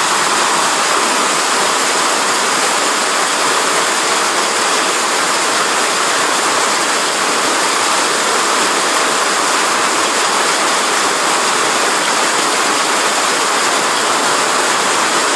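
Heavy rain mixed with hail pelting down on wet pavement: a loud, dense, steady hiss of countless impacts.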